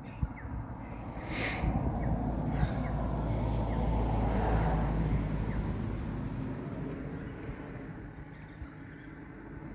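A motor vehicle's engine passing by: it grows louder over a few seconds, holds a steady low note at its loudest, then fades away.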